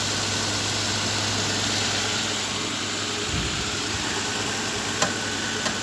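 Nissan RB20 2-litre single-cam straight-six engine idling steadily and smoothly.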